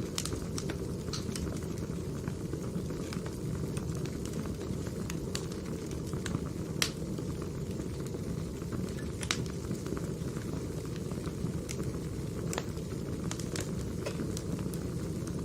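Wood fire crackling: a steady low rush of burning logs with irregular sharp pops and snaps, the loudest pop about seven seconds in.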